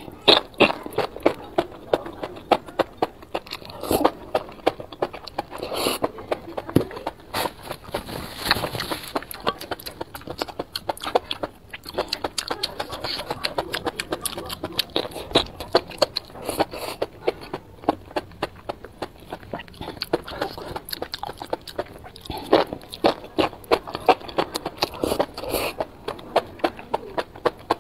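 Close-miked chewing of enoki mushrooms in chili sauce: a steady run of wet smacking and crunchy chewing clicks, with louder smacks every few seconds.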